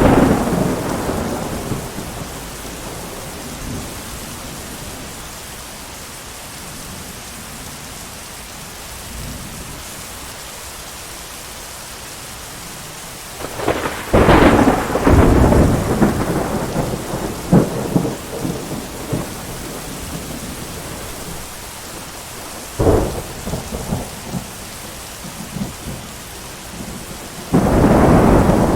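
Steady rain with thunder. One clap fades away just after the start, a long crackling roll comes about halfway through, a shorter crack follows a few seconds later, and another clap comes near the end.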